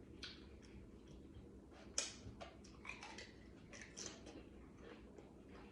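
Close-up eating sounds: a person chewing food, with scattered short wet clicks and smacks, the sharpest about two seconds in.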